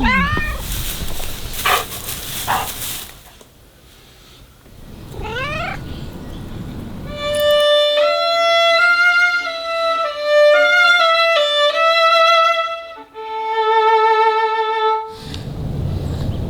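A cat meows at the start and again about five seconds in. Then a violin plays a slow melody with vibrato for about seven seconds before stopping abruptly.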